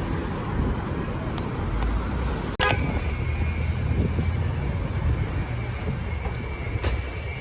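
Steady low vehicle rumble, with an abrupt break a little over two seconds in.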